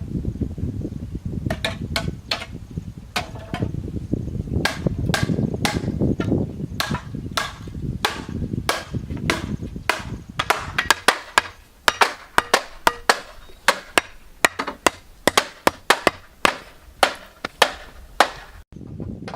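Repeated sharp strikes of a hand tool on building material, irregular at first over a low steady rumble, then coming faster and more evenly after about ten seconds. The sound cuts off abruptly near the end.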